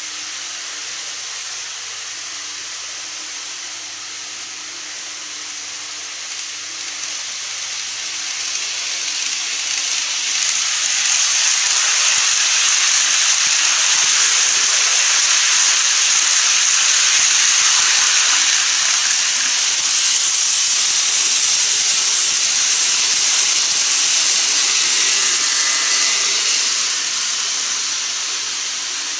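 N-gauge model train running on its track, a hissing rolling noise that grows louder from about six seconds in, stays loud through most of the stretch, and fades near the end as the train passes close by.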